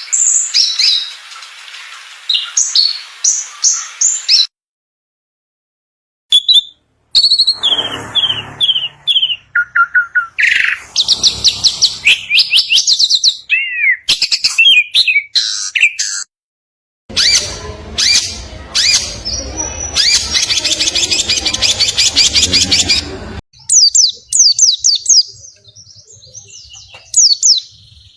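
Caged songbirds singing and chattering: fast chirps, trills and repeated whistled notes, in a string of spliced recordings with a couple of brief dead-silent gaps where they join.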